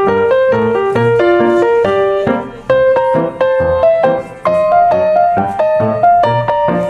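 Background music: a piano playing a quick, even run of single notes over lower bass notes.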